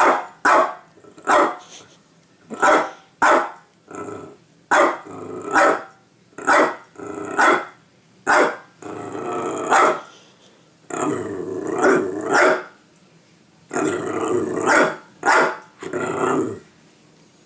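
A dog barking over and over in short, sharp barks, with longer, rougher growling barks in the middle and near the end; the barking stops just before the end.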